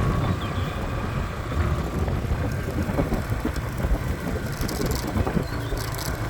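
Motorbike riding off-road: a steady low rumble of the engine and tyres on the track, with a few faint knocks from the bumps.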